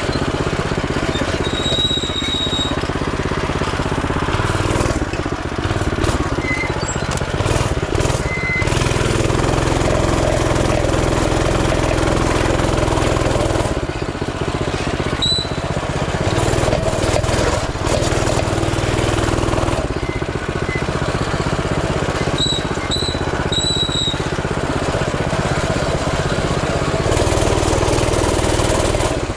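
Coleman CT200U mini bike's small single-cylinder four-stroke engine running while being ridden, its pitch rising and falling with the throttle. A few brief high squeaks come through now and then.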